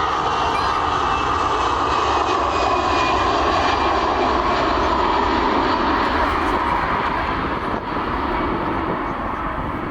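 Airliner passing close by, its engines making a loud, steady noise with a deep rumble underneath, easing slightly near the end.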